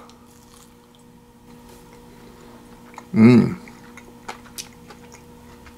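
A man chewing a bite of sausage patty, with small wet mouth clicks, and a short closed-mouth hum of approval about three seconds in. A faint steady hum runs underneath.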